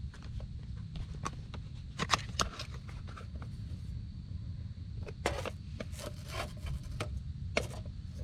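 Scattered knocks, clicks and scrapes of objects being handled, over a steady low rumble.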